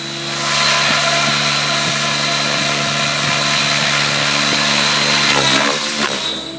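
Align T-Rex 700E electric RC helicopter with an 800MX brushless motor running: a steady mechanical whine with several held tones. It grows louder over the first second, holds steady, then falls away about six seconds in.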